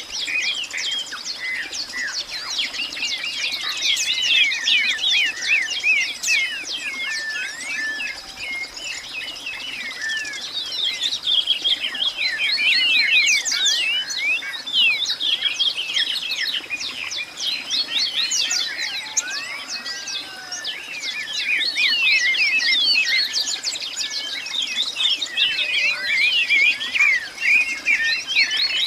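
A dense chorus of many birds chirping at once, with quick overlapping calls and no break, over a steady high-pitched hum.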